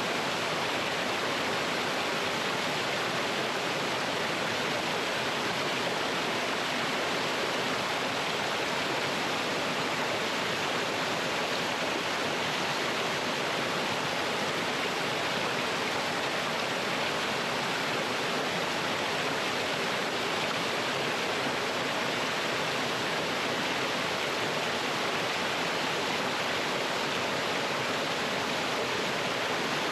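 Mountain stream rushing over rocks in a small waterfall: a steady, unbroken splashing rush of water.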